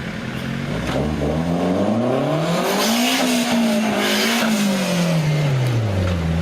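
An off-road 4x4's engine revving up over about two seconds, held high for a second or two with a rush of noise at the top, then falling back toward idle near the end.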